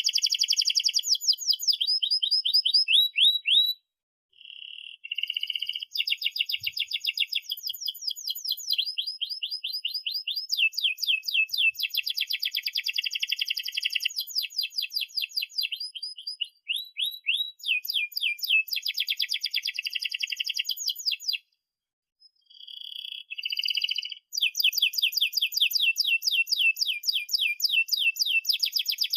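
Domestic canary in full song, singing long rolling trills of rapid repeated high notes, broken by a few short pauses.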